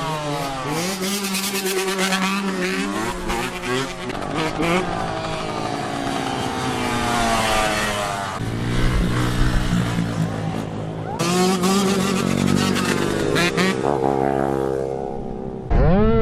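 Several motorbike engines revving up and down with overlapping, rising and falling pitches, with a rough crackle in the first couple of seconds. Near the end the sound jumps suddenly louder to a single strong engine note.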